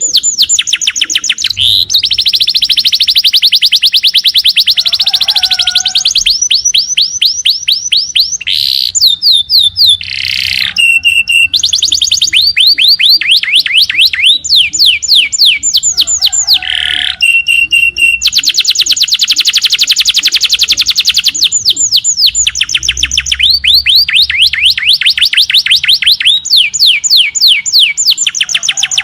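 Small songbirds singing in long, very fast trills of rapidly repeated high notes, run after run lasting several seconds each, broken by brief pauses and a few short lower calls.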